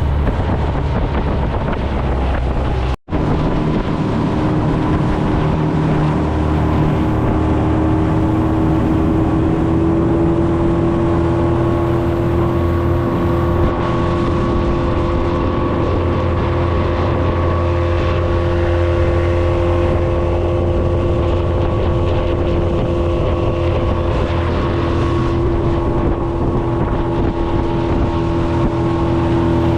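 Yamaha 20 hp four-stroke tiller outboard running steadily under way, with wind on the microphone; the motor is still in its break-in hours. The sound drops out for an instant about three seconds in, and after that the engine note climbs a little and holds.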